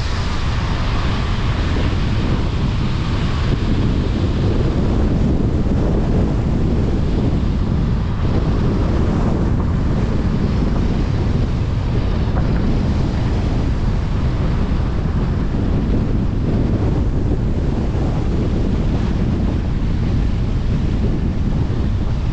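Steady, loud rushing noise with wind buffeting the microphone, strongest in the low end and unchanging throughout.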